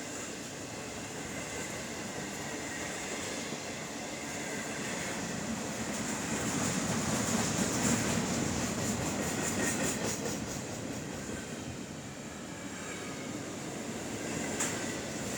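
Freight train rolling past: a steady rumble of wheels on rail that grows louder around the middle and then eases off, with a faint regular clicking of wheels over rail joints at its loudest.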